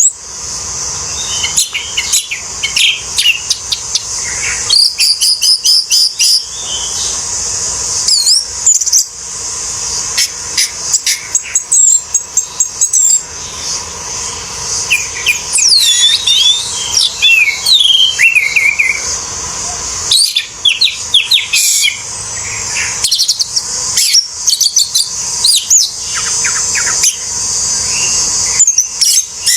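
Orange-headed thrush singing a long, varied song of quick whistled phrases, chirps and rapid trills, in bursts separated by brief pauses, over a steady high hiss.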